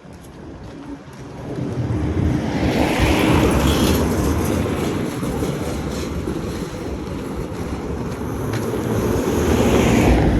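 Road traffic passing close by on a city street: a rushing rumble that builds a couple of seconds in, eases off, and swells again near the end as another vehicle goes past.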